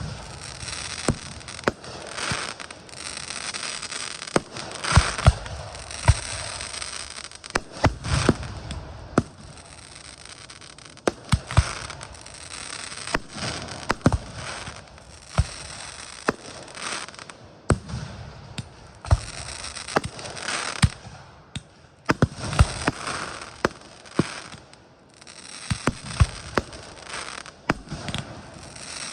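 A fireworks display: aerial shells bursting in many sharp bangs at irregular intervals, over a continuous crackling hiss.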